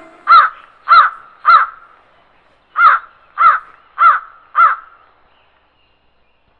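A bird calling in two runs of about four short calls each, the calls a little over half a second apart, with a pause of about a second between the runs.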